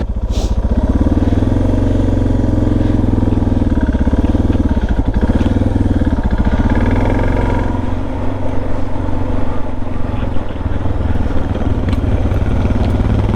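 Motorcycle engine running steadily under way, its low, even firing pulses dominating; about eight seconds in the sound turns more uneven as the rider changes throttle.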